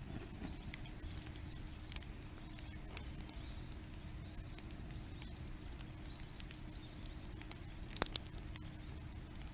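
Outdoor ambience: a low steady rumble under high, quick chirps repeating a few times a second, with a sharp click about eight seconds in.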